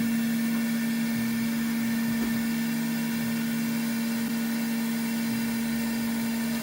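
Roland PNC-2300A CNC engraver's motor running with a steady, even-pitched hum that cuts off suddenly at the end.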